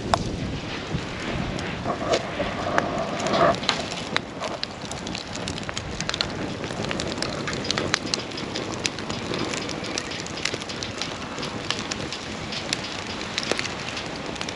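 Wood campfire burning, with a steady hiss of flame and frequent sharp crackles and pops of burning wood. There is a louder rush of crackling about two to three seconds in.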